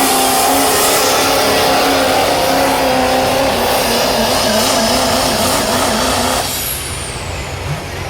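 Diesel pulling tractor's engine at full throttle, dragging the weight sled down the track, with a wavering engine note under a loud rush of noise. About six and a half seconds in the throttle comes off: the noise drops and a high whistle falls away as the engine winds down at the end of the pull.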